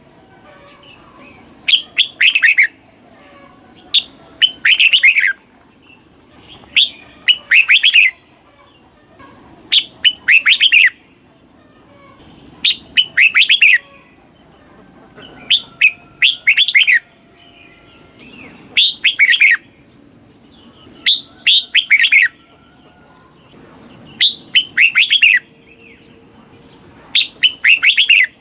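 Red-whiskered bulbul singing: about ten short, loud phrases of quick falling notes, repeated every two to three seconds.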